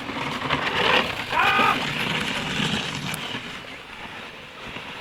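Large dogs playing roughly, a noisy scuffle with a brief high cry about a second and a half in, then quieter.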